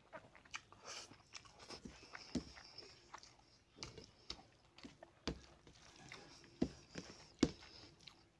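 Close-up eating sounds: chewing and wet mouth smacks on a mouthful of rice and fish curry, with fingers mixing rice on a steel plate. Irregular small clicks throughout, with a few sharper ones from about five seconds in.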